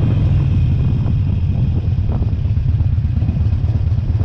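Motorcycle engine running steadily at low revs, a dense low rumble.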